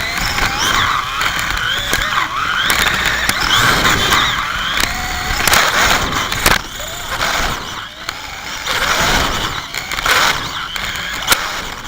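Slot cars' small electric motors whining around the track, their pitch rising and falling as the cars speed up and slow down, with sharp clicks and rattles from the cars on the track.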